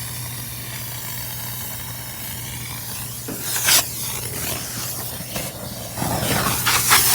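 A motor running with a steady low hum under a hiss of rushing air. Short louder spurts come about halfway, and the rushing grows louder near the end.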